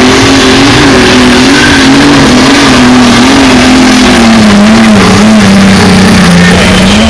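Light super stock pulling tractor's engine run hard at full throttle under the load of the sled, very loud. Its pitch wavers up and down and sinks slowly over the last few seconds as the engine loads down.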